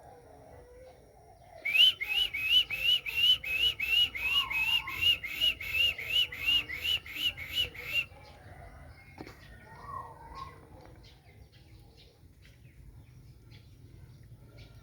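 Prinia (prenjak) singing a loud song of about twenty identical short whistled notes, each rising then dipping, about three a second, which stops abruptly after about six seconds. Fainter, lower bird calls sound in the background.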